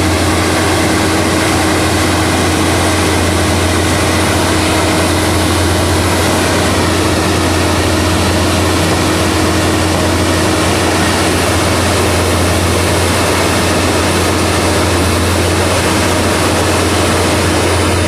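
A heavy diesel engine of a railway ballast profile regulator running loudly and steadily, a deep constant hum with a steady whine over it.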